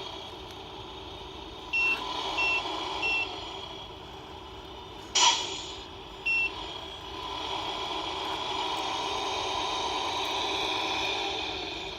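An RC Mercedes Actros truck's electronic sound unit plays a simulated diesel engine running, with four short reversing beeps (three in quick succession, one more a few seconds later). About five seconds in there is a sharp air-brake hiss. The engine sound rises about eight seconds in and eases off again near the end.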